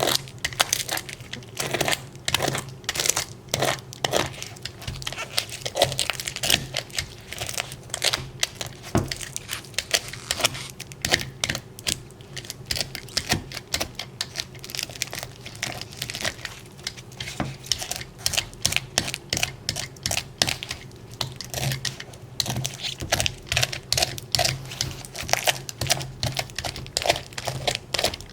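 A dense, irregular run of sharp clicks and crinkling, as of small objects and material being handled, over a steady low hum.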